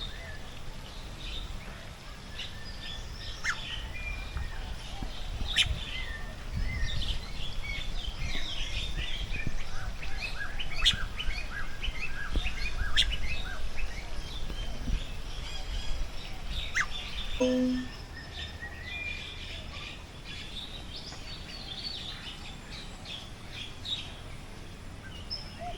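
Many birds chirping and calling at once, a dense mix of short high notes, with a low rumble underneath through the middle stretch.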